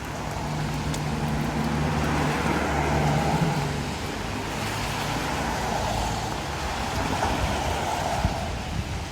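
A car driving past: a low engine hum for the first few seconds, then a rush of tyre noise on the road that fades near the end.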